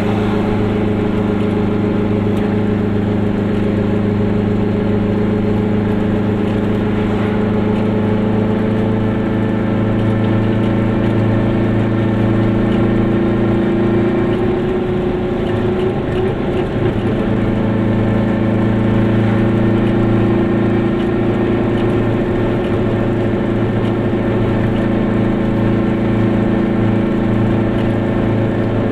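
Goggomobil's small air-cooled two-stroke twin engine running steadily under way, heard from inside the cabin. About halfway through its note rises and briefly breaks up, then settles again.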